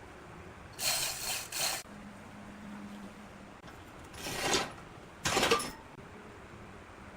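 Hand tool scraping or rasping across wood in short rough strokes: three quick strokes about a second in, then two more, one around four seconds in and one near the end.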